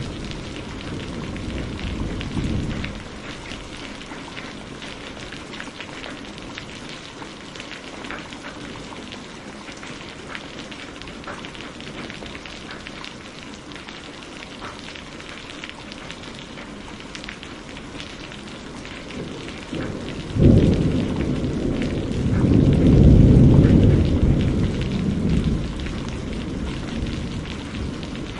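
Steady rain with fine crackles of a wood fire, and a rumble of thunder that breaks out sharply about two-thirds of the way through, swells for a few seconds and rolls away; a fainter rumble dies down in the first few seconds.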